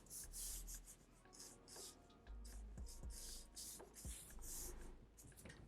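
Graphite pencil scratching on paper in a quick run of short sketching strokes, a dozen or so, as for feathery texture lines.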